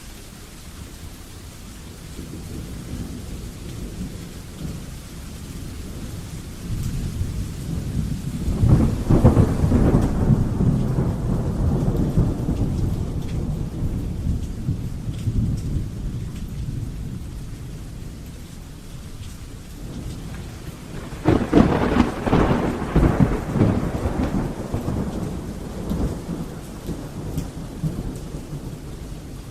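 Thunderstorm: steady rain with two long rolls of thunder, the first building up about a quarter of the way in, the second breaking more sharply about two-thirds in and rumbling away slowly.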